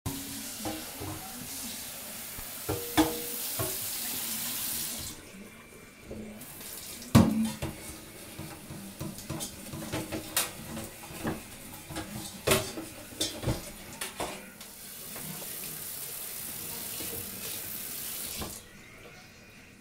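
Kitchen tap running, shut off after about five seconds and running again for a few seconds near the end, with dishes clinking and knocking in between and one sharp knock about seven seconds in.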